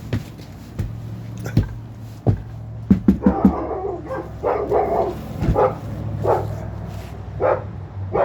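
A dog barking in a run of short barks from about three seconds in, over a steady low hum, with a few sharp knocks along the way.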